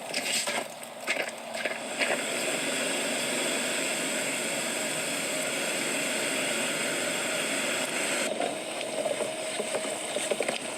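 Irregular crunching for about two seconds, then a steady rushing hiss that changes abruptly near the end, as at a cut between two clips.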